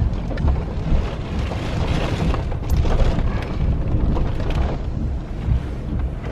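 Wind buffeting the microphone: a loud, uneven low rumble with a rushing hiss, rising and falling in gusts.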